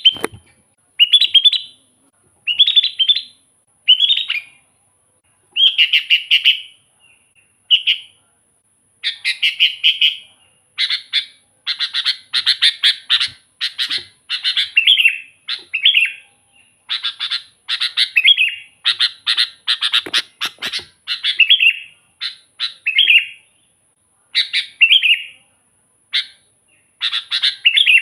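Sooty-headed bulbul singing over and over: short bubbly whistled phrases, about one a second at first, crowding together in the middle.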